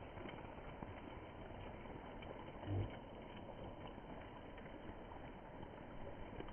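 Steady rain, an even hiss with scattered drop clicks, and a brief low thump about three seconds in.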